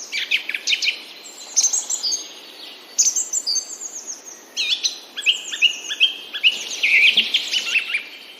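Several birds singing and chirping: quick, repeated rising and falling notes and short trills, growing busier about halfway through.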